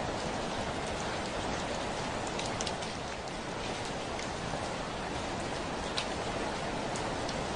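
Steady rain falling on a window pane, an even hiss with scattered sharper drop taps, one standing out about six seconds in.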